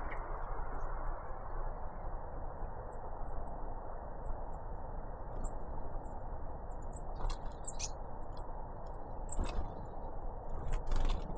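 Great tits and blue tits at a feeder: faint, very high chirps scattered through, and a few sharp taps in the second half, over a steady background hiss.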